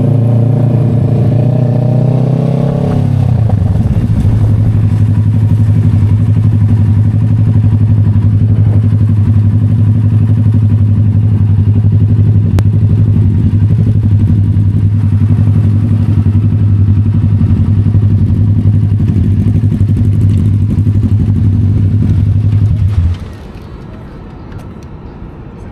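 Motorcycle engine running loudly: it climbs in pitch over the first few seconds, then holds a steady low drone and cuts off abruptly near the end.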